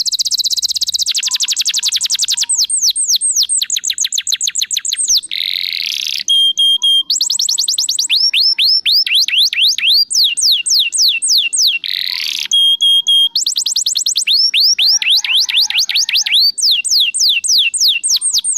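Domestic canary singing continuously in fast trills, long runs of quick notes sweeping downward in pitch, broken by a couple of buzzy rolls and short steady whistled notes.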